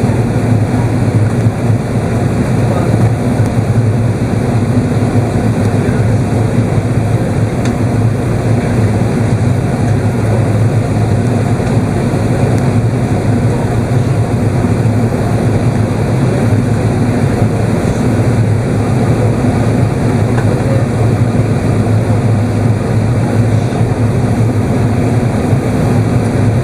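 Steady cabin noise inside an Airbus A380 in flight: the low, even drone of the engines and the rush of air along the fuselage, with no sudden bumps or changes.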